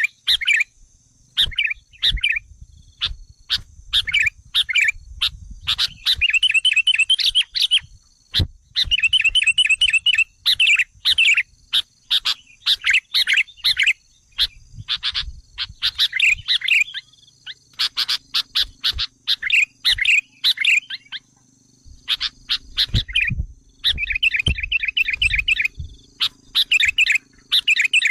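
Sooty-headed bulbul (kutilang) calling in quick bubbly bursts of chirps, one after another with short pauses between. This is a lure call used to provoke wild bulbuls.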